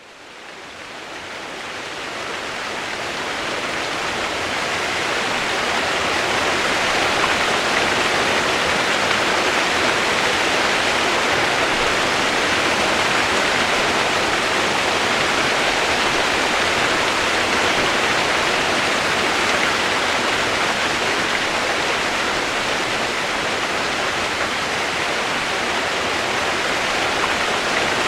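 Steady rushing water, an even, unbroken rush that fades in over the first few seconds and then holds level.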